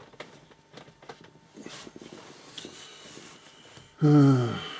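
Faint scattered clicks, then near the end a loud, brief voice-like sound that falls in pitch.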